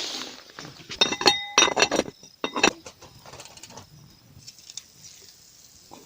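Metal objects clinking together several times in quick succession, with short bright rings, between about one and nearly three seconds in, followed by faint scattered ticks and rustles.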